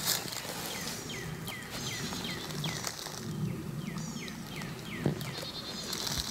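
A bird calling a rapid series of about a dozen high, downward-sliding notes, roughly three a second, stopping shortly before the end. Footsteps rustling in leaf litter underneath, with one sharp snap about five seconds in.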